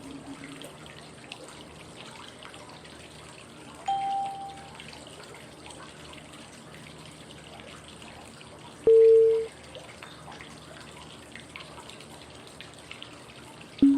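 Steady running water with short, clear cue tones exactly five seconds apart: a higher tone about four seconds in, a louder lower one about nine seconds in, and a still lower tone near the end. They mark the changes between the five-second inhale, hold and exhale of 5-5-5 breathing.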